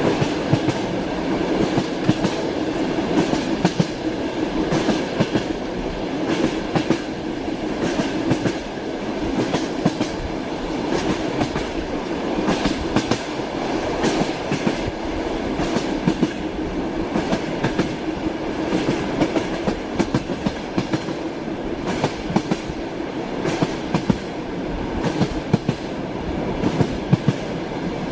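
Passenger train carriage in motion, heard from inside: a steady rumble of running with the wheels clicking over rail joints again and again, often in quick clusters of clicks.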